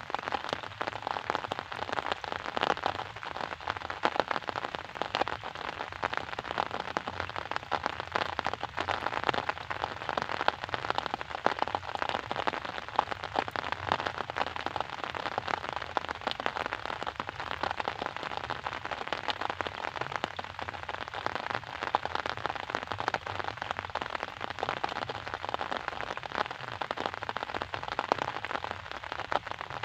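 Steady rain falling, a dense even patter of many drops on a surface.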